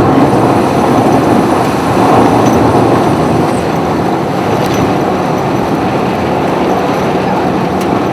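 Steady road and engine noise inside a moving car, with a low hum throughout.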